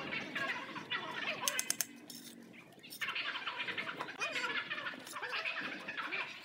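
Birds chirping and calling, with a few sharp clicks about one and a half seconds in.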